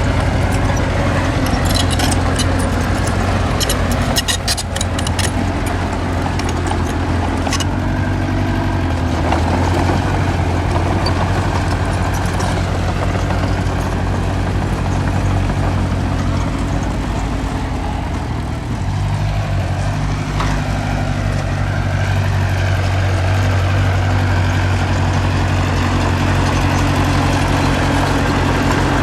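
Diesel engine of construction machinery running steadily, with a slight change in engine pitch about two-thirds of the way in. Sharp metallic clanks and clicks come in the first several seconds.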